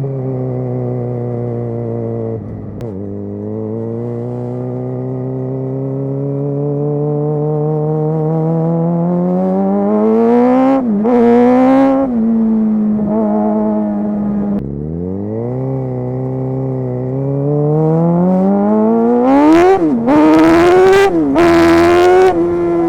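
Sportbike engine of a crosskart pulling up through the gears: the revs climb steadily, drop at a shift about 3 s in and again about 15 s in, and rise sharply twice, near the middle and near the end, with bursts of hiss at the highest revs.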